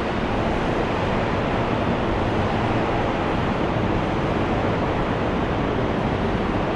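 Steady, even rumble of a subway station, with no single sound standing out and no change in level.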